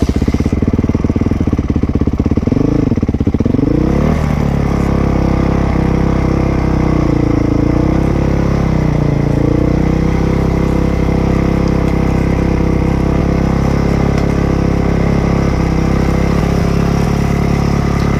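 Dirt bike engine starting abruptly and then running at a fast idle, with a few small rises and dips in revs in the first ten seconds. The idle stays high instead of dropping back down.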